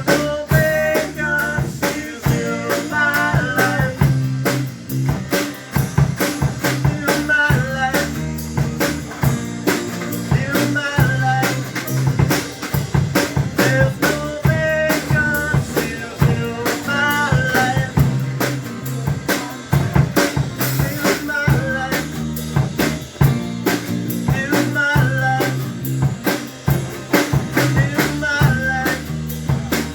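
A live band playing a song, the drum kit keeping a steady, busy beat under the melody.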